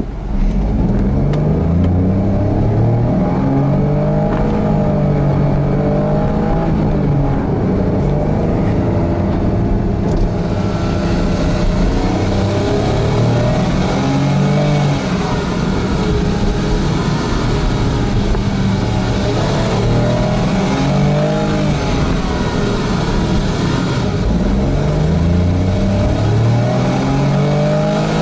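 Honda S660's turbocharged 658 cc three-cylinder engine being revved again and again, its pitch climbing and dropping with each rev. From about ten seconds in there is more hiss over the engine note.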